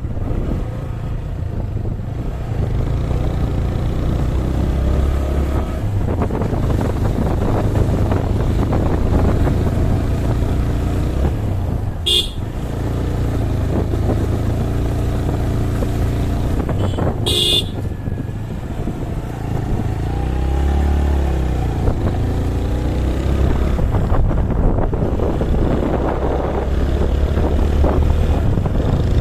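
A motor vehicle's engine running steadily on the move, its pitch shifting up and down, with two short horn toots, the first about twelve seconds in and the second five seconds later.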